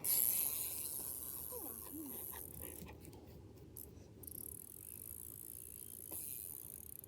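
Small bike rattling as it rides past, over a steady high hiss.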